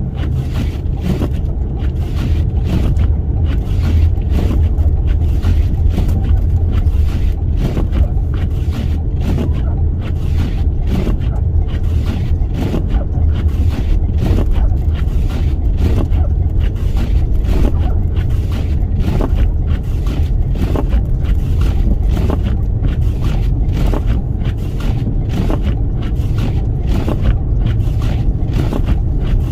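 Toyota Sienna minivan driving slowly through a snowstorm in strong gusting wind: a steady low rumble of road and wind noise with frequent irregular ticks and taps over it.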